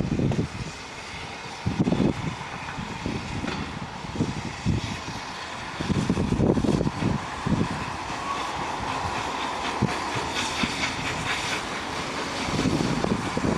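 LNER A1 class steam locomotive 60163 Tornado on the move, its running sound building from about six seconds in, with gusts of wind buffeting the microphone.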